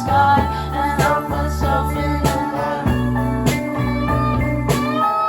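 Live indie rock band playing between vocal lines: guitar to the fore over a steady bass line and regular drum hits.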